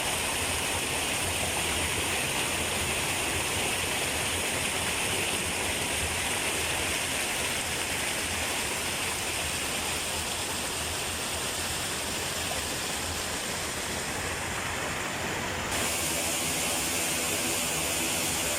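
Water pouring steadily over a small artificial waterfall, a constant rush. Near the end the sound shifts slightly to a different patch of falling water.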